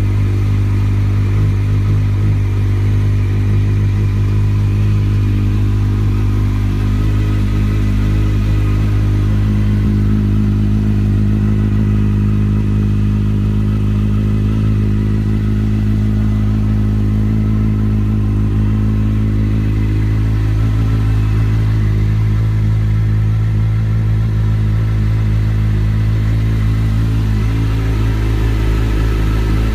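Kawasaki Z800 inline-four engine idling steadily through an Akrapovic carbon-fibre slip-on silencer, with an even, unchanging engine note.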